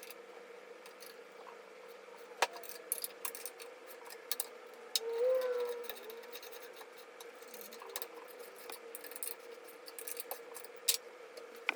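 Scattered light clicks and ticks of metal parts being handled and adjusted, over a faint steady hum, with a short squeak about five seconds in.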